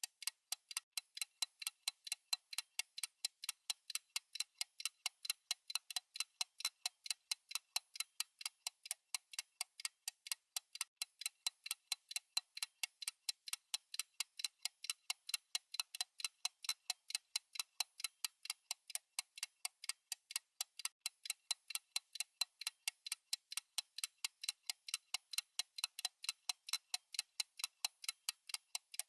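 Fast clock-style tick-tock sound effect of a countdown timer, a steady run of short, sharp, bright ticks at about four a second.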